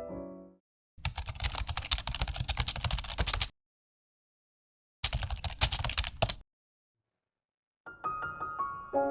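Close-up handling noise from unboxing merchandise packaging: two short bursts of rapid crackling clicks, like plastic being handled, each cut off abruptly into silence. Piano music ends just after the start and comes back near the end.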